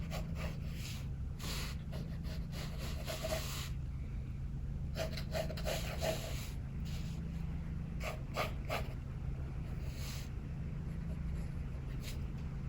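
Pencil scratching across paper in short strokes and quick runs of strokes, over a steady low rumble of strong wind.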